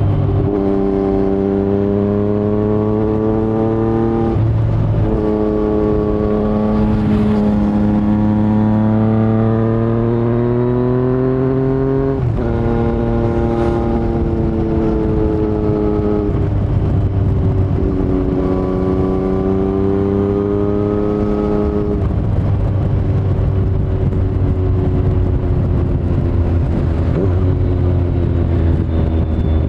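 2019 Yamaha MT-09's three-cylinder engine through an Akrapovic carbon full-system exhaust with no dB killer, pulling hard through the gears under way. The note rises in pitch over several pulls, broken by sudden drops at the shifts, then settles to a steadier, slowly falling note for the last several seconds.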